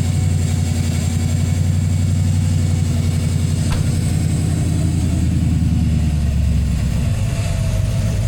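Vehicle engine idling steadily with an even low pulse; its lowest note shifts slightly about seven seconds in.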